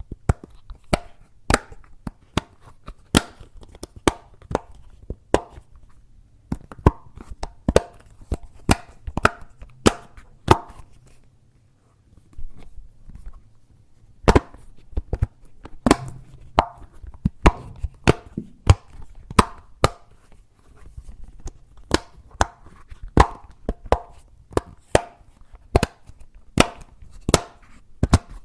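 Silicone push-pop bubbles of a Simple Dimple fidget toy being pressed one after another, each giving a sharp click, irregularly about two or three a second, with a couple of short pauses.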